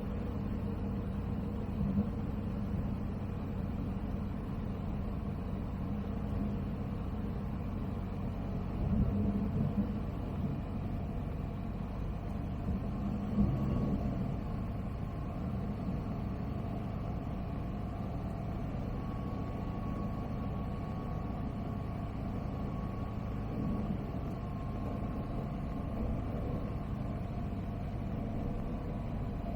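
Steady low drone of a Zenith CH 701's Zonsen C100 engine (a Rotax 912ULS clone) and three-blade propeller at approach power, heard through the cockpit intercom during a soft-field landing on sod. A few brief louder bumps come about 2, 9 and 13 seconds in.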